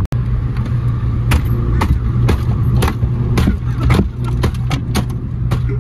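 Renault Clio Mk2 engine running with a steady low drone, with irregular sharp knocks or clicks about two or three times a second.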